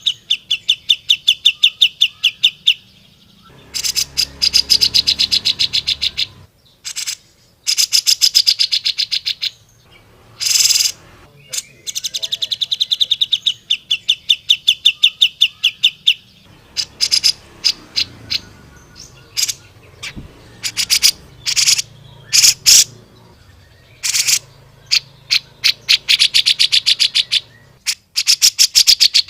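Cucak jenggot (grey-cheeked bulbul) singing in long runs of very rapid, stuttering high notes, each run lasting a few seconds, broken by short gaps and single sharp calls.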